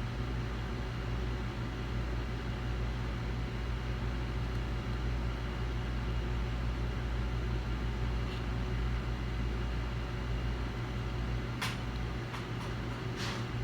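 Steady low electrical or fan-like hum from workbench equipment, with a few sharp clicks near the end.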